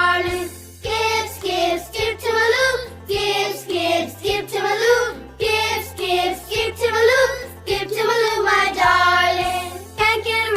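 A children's song: a singing voice in short sung phrases over a simple instrumental backing with a stepping bass line.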